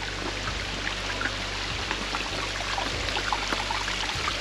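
Small mountain stream running and trickling over rocks, with many small gurgles and splashes.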